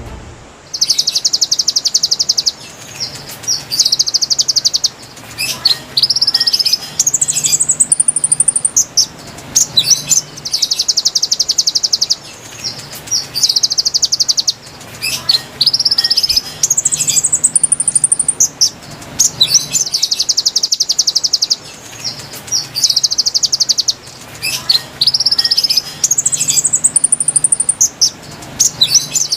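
Konin bird song played as a looped lure recording: rapid buzzy trills alternating with short notes rising steeply to a high whistle. The same sequence of phrases repeats about every nine seconds.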